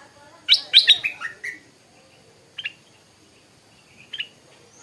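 Stripe-throated bulbul singing: a loud burst of quick, sharp notes about half a second in, followed by two brief calls later on.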